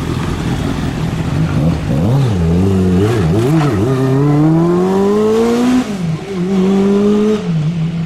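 A car engine revved in a few quick blips, then rising steadily as the car accelerates, dropping at a gear change just under six seconds in, pulling again and easing off near the end.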